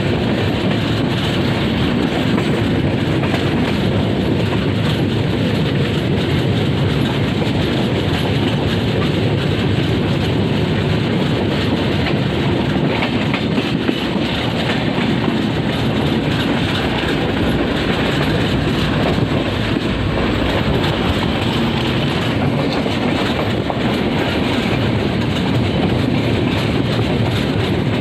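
Train wheels running on the rails: a loud, steady rumble of the track with clickety-clack from the wheels.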